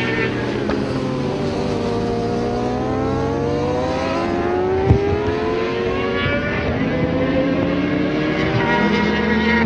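600cc supersport race motorcycle engines, more than one heard at once, with the revs dropping and climbing again and again as the bikes run through a corner. There is a single sharp click about five seconds in.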